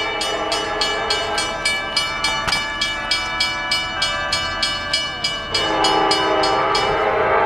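Grade-crossing warning bell ringing at about three strokes a second. About five and a half seconds in, a CSX freight locomotive's air horn starts and holds over the bell.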